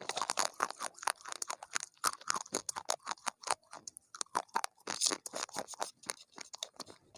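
A person chewing crunchy food: many rapid, irregular crunches.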